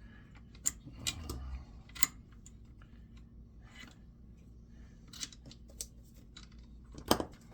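Scattered clicks, taps and scrapes of hand tools working tight copper windings out of an electric motor, with a brief dull knock about a second in. The sharpest click comes near the end.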